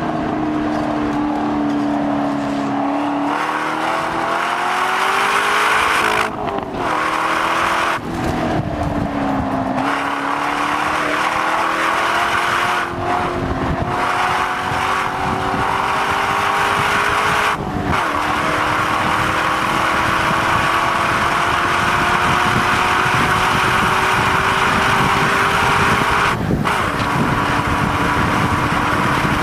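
Corvette C6's V8 engine running hard at track speed, its pitch climbing slowly over long stretches, with about five brief breaks in the sound. A steady rush of wind and tyre noise runs underneath.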